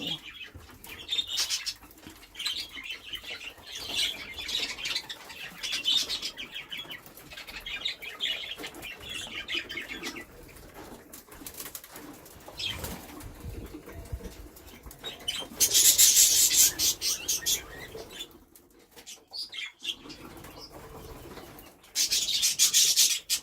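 Budgerigars chattering in their cages, with loud bursts of wing flapping about two-thirds of the way through and again near the end as birds flutter about.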